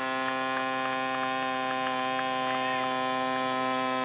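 Steady electrical hum with many overtones, unchanging in pitch, with a few faint light ticks.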